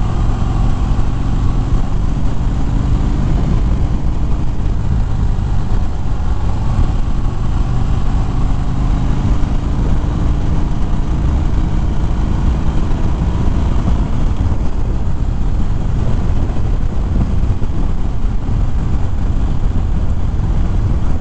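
A Harley-Davidson Fat Bob's V-twin engine running at road speed, mixed with steady wind rush over a helmet-mounted microphone.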